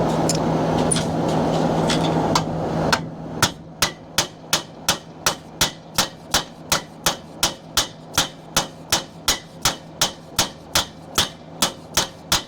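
Rapid, evenly spaced metal-on-metal strikes, about three a second, beating on the metal pivot joint of an RV awning arm. They start about three seconds in, after a steady hum.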